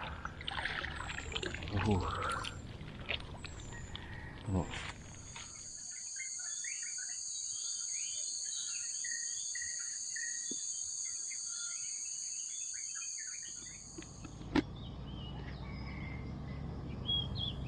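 Outdoor waterside ambience: birds chirping, and from about five seconds in a steady high-pitched insect drone that stops suddenly about eight seconds later. A single sharp click comes shortly after it stops.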